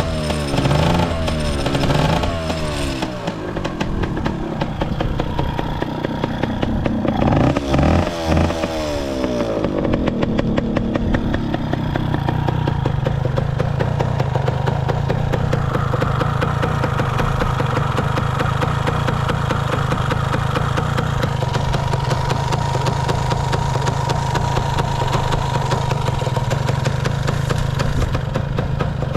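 Kawasaki KSR80's two-stroke single through an RSV expansion chamber, revved up and down twice, then settling to a steady idle. The engine runs with no abnormal noise.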